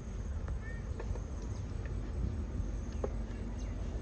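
Crickets trilling as one steady high-pitched tone, over a low rumble, with a few faint clicks and short chirps.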